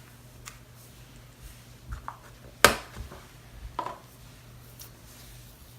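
Cloud slime being squished and stretched by hand, giving a few scattered small clicks and pops, with one sharper pop a little under three seconds in.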